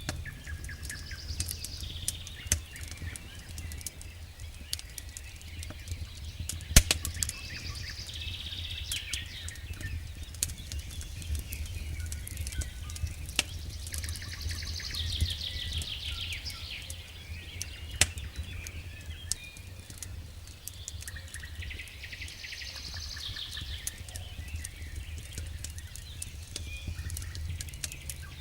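Wood fire in a fireplace crackling steadily with scattered sharp pops, two of them loud (about seven and eighteen seconds in), over a low steady rumble. A high chirping trill recurs every few seconds.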